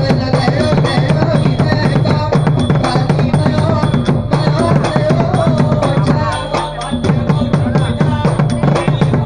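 Nora (southern Thai dance-drama) ensemble music: fast, dense drumming with a wavering melody above it and steady high ringing tones from small metal percussion. The drumming thins briefly about six and a half seconds in, then picks up again.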